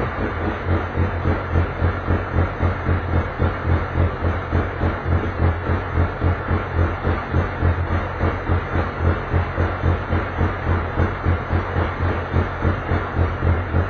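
Touring race car engine running at a steady idle, its sound swelling and fading evenly about three to four times a second.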